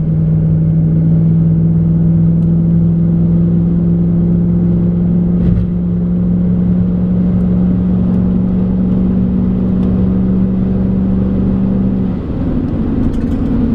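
Jeep Commander's 5.7 Hemi V8 pulling steadily while driving, its hum slowly rising in pitch. There is a brief thump about halfway through, and the note changes near the end.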